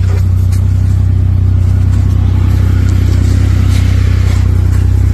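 A vehicle engine running steadily, a loud low drone that holds even throughout.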